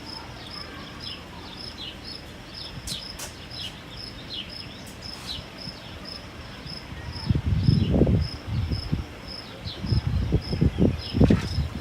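Crickets chirping steadily, about two short high chirps a second, with brief falling chirps mixed in. From about seven seconds in, irregular loud low thumps and rumbling come and go.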